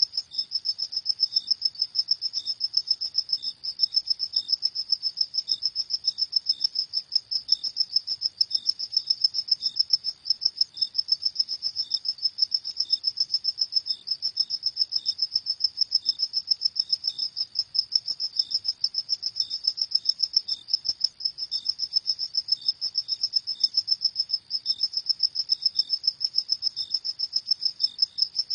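Field crickets chirping at night: a steady, fast pulsing trill at a high pitch, with a second, lower and slower chirp repeating at an even rhythm.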